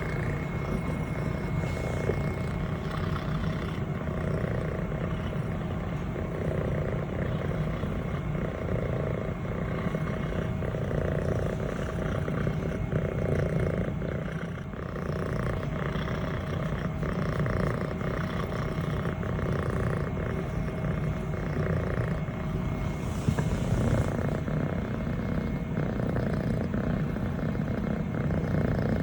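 Scottish Fold kitten purring steadily and without a break while being petted.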